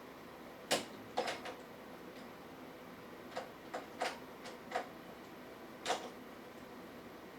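About ten light clicks and taps at irregular intervals over a faint steady room hiss, the sharpest about a second in and another near six seconds.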